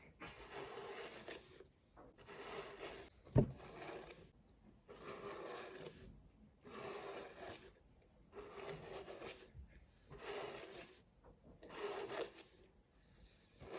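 A massage hairbrush drawn through long hair in repeated slow strokes, about one every one and a half seconds, each a soft scratchy brushing rustle. A single sharp tap stands out about three and a half seconds in.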